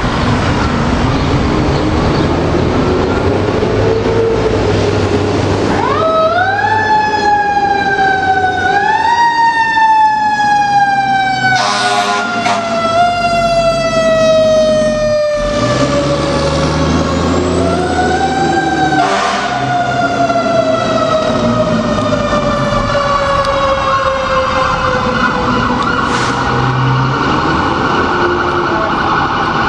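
Fire engine siren sounding as the truck responds: the siren winds up sharply about six seconds in and again twice more, each time sliding slowly down in pitch. A short horn blast comes about twelve seconds in, over the low rumble of the truck's engine.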